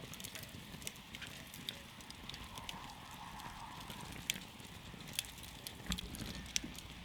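Wood campfire crackling: irregular sharp pops and snaps over a steady low hiss of burning.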